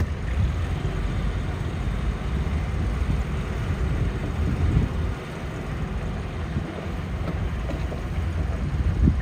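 Heavy diesel earthmoving machinery running: a steady low rumble that stays fairly even throughout.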